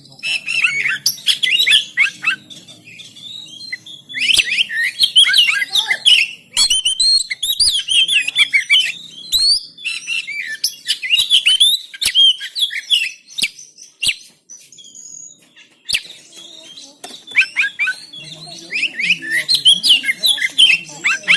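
Oriental magpie-robin (kacer) singing a fast, varied song of sharp whistles and chirps in loud bursts, easing off to scattered notes about two-thirds of the way through before picking up again.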